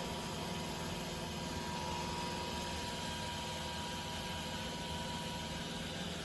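iRobot Roomba Combo j5 robot vacuum running: a steady motor-and-fan hum with a few constant tones and no change in speed.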